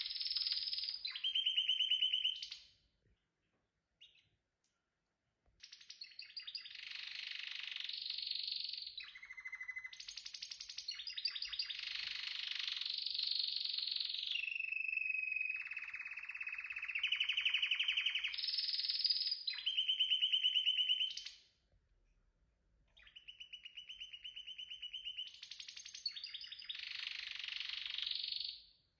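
Canary singing long phrases of rapid trills and rolls, broken by two short pauses.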